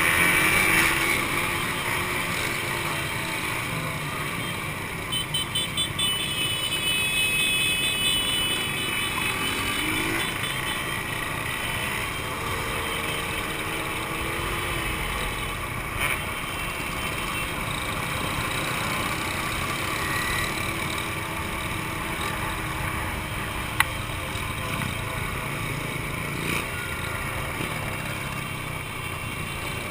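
Two-stroke motorcycle engines running, their pitch rising and falling slowly, with a short burst of rapid pulsing about five seconds in.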